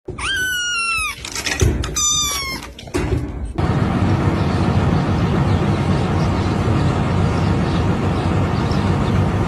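A cat meowing twice, two high calls that fall in pitch. About three and a half seconds in, a steady, loud low noise takes over.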